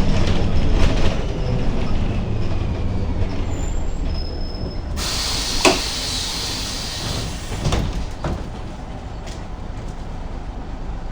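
Ikarus 280 city bus running, its engine rumbling low with rattles and knocks. About five seconds in comes a loud hiss of compressed air lasting a couple of seconds, with a sharp knock in it, typical of the bus's pneumatic brakes or doors.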